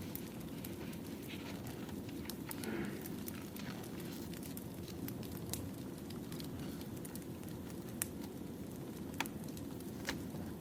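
Wood fire burning: a steady low rush of flames with scattered sharp crackles and pops, a few louder pops in the second half.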